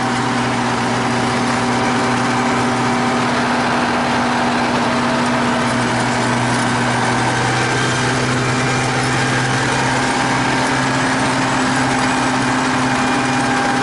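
T-150K wheeled tractor's diesel engine running steadily, pulling a cultivator in the field.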